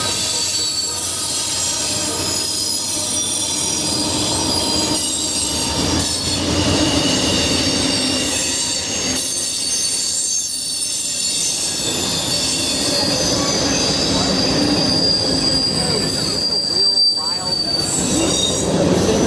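Railroad cars of a passing train rolling by with steady, high-pitched wheel squeal, several squealing tones held over one another.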